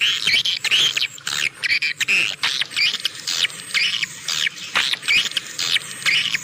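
Swiftlets twittering: a dense, continuous run of rapid, high chirps and trills with no pauses, the kind of swiftlet call recording played to lure swiftlets to roost.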